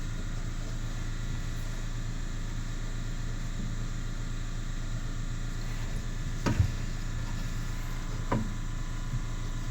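A steady mechanical hum runs throughout. In the second half come two sharp metallic knocks about two seconds apart, as the exhaust pipe and muffler hangers are knocked against the car's underside.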